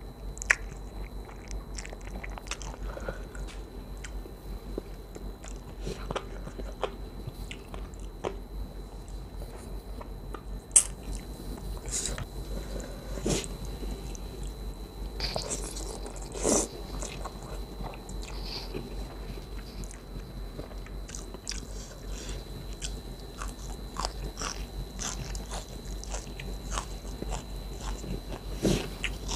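Close-miked chewing and biting of chicken feet and rice noodles in coconut curry: wet mouth clicks and smacking throughout, with a few sharper crunchy clicks, the loudest about 11 s in.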